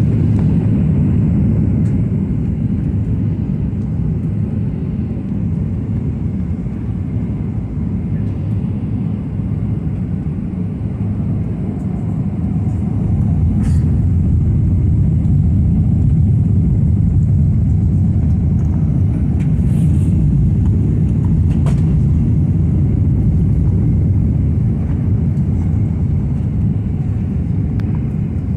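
Boeing 737-800 airliner cabin noise while landing: a steady low rumble of engines and airflow that grows louder about halfway through, with a few faint clicks.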